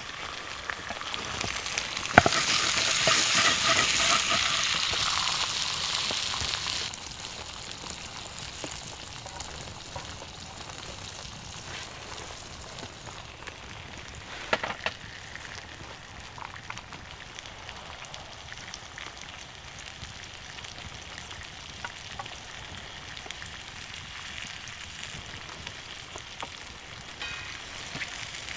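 Steak frying over a campfire: a knock about two seconds in, then a loud surge of sizzling that fades over several seconds to a steady, lower sizzle. A single sharp click near the middle.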